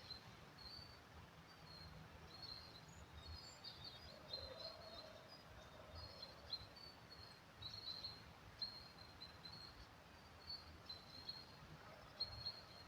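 Faint early-spring woodland ambience: small birds twittering in many short, high chirps throughout, over a low rumble.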